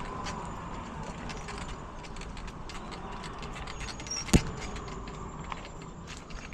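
Bicycle rattling and clicking as it is ridden over a rough path, with one sharp knock a little over four seconds in.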